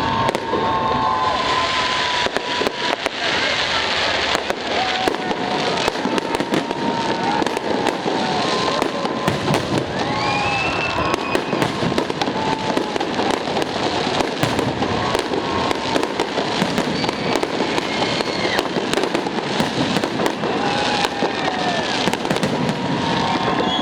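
Fireworks salute: a dense, unbroken barrage of crackling and bangs, with short whistling tones rising above it now and then.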